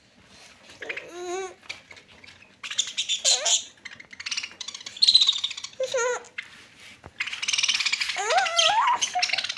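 Parrots squabbling over food: bursts of harsh screeching and squawking, the longest near the end, mixed with shorter warbling calls that waver up and down in pitch.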